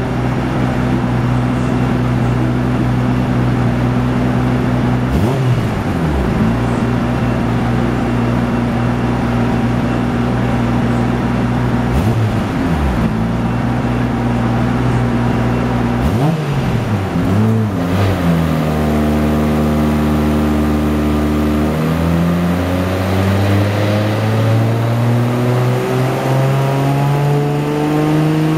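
Nissan Skyline GT-R R33's 2.7-litre straight-six with a single Trust T78-29D turbo runs at a steady speed, blipped up three times. It then settles lower, and from a few seconds later its engine speed climbs slowly and steadily on the dyno.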